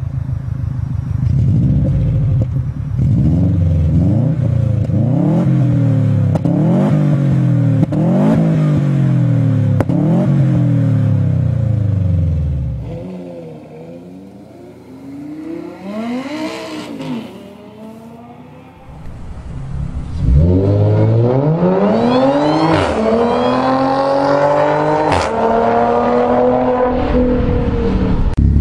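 Subaru Impreza WRX STI exhaust, the engine blipped up and down about eight times in quick succession. After a quieter stretch, a car accelerates hard from about twenty seconds in, its engine note climbing in pitch through several gears.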